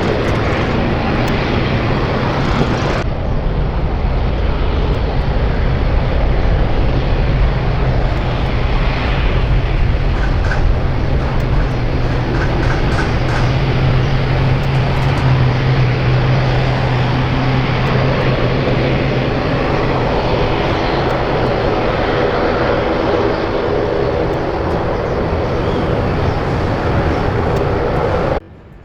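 Jet airliner engines running loud and steady, with a low hum under broad engine noise. The sound changes abruptly about three seconds in and cuts off suddenly near the end.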